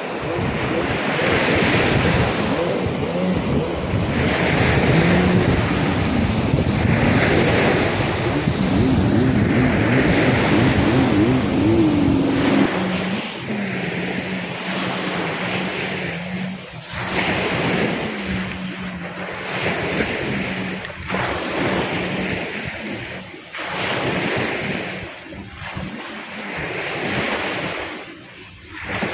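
Surf from a storm-driven sea breaking and washing up the beach in repeated swells, with wind buffeting the microphone. A low steady hum runs underneath through the middle.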